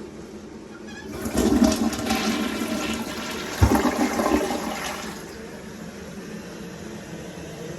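Toilet flushing: a loud rush of water for about four seconds with a knock near the middle, then a quieter steady hiss as it refills.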